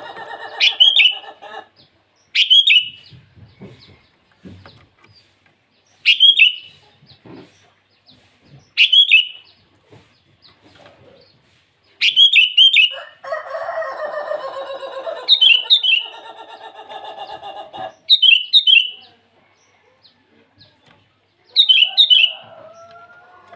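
Sooty-headed bulbul giving short, bright call phrases about eight times, every two to four seconds, the later ones doubled or tripled. Twice a lower, buzzy, pulsed call from another bird sounds under it, the second time for about five seconds.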